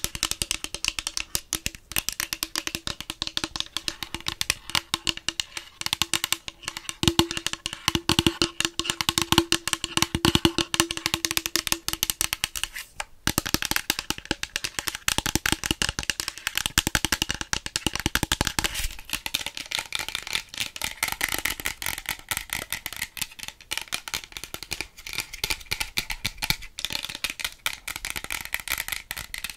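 Close-miked ASMR clicks and taps in a fast, dense, uneven stream, with a faint steady tone under the first half.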